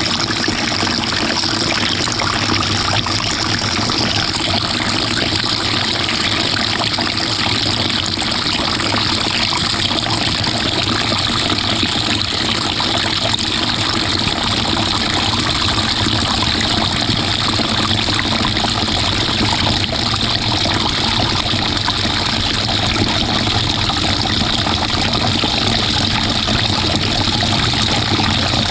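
Inside the tub of a GE GTW220ACKWW top-load washing machine, heard from a camera fixed to the agitator: a steady rush of water with the machine running. About four seconds in, the highest hiss drops away and the sound settles into a steadier mechanical rush.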